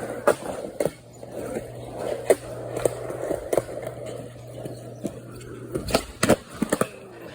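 Skateboard rolling on a mini ramp: a steady wheel rumble broken by sharp clacks of the board and trucks, with a quick run of louder clacks about six seconds in.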